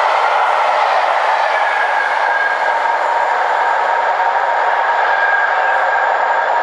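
Steam-hauled passenger train rolling past at speed: a steady rush of wheels on rail, with a faint high ringing tone joining about two seconds in.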